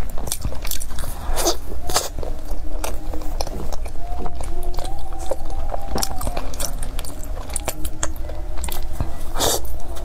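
Close-miked chewing and biting of a soft bread bun filled with tapioca pearls: repeated wet mouth clicks and smacks.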